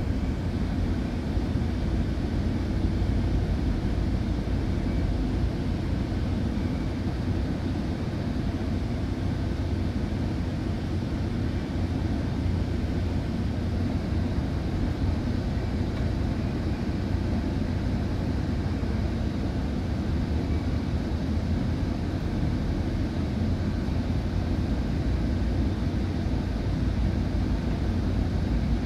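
Steady low rumble of a Rail Runner commuter train rolling along, heard from inside a passenger car.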